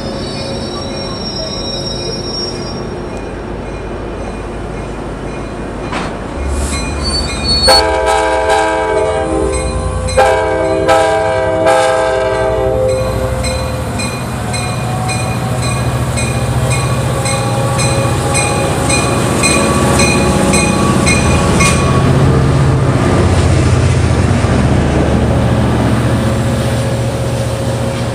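A passing passenger train blows its multi-note air horn in two blasts, the second longer, after faint wheel squeal fades early on. The train then runs past with a steady rumble and a regular clicking of wheels over the rails.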